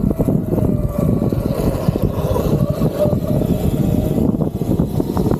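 Electric dirt bike being ridden, with wind buffeting the microphone in a loud low rumble. A faint, wavering motor whine sits above it.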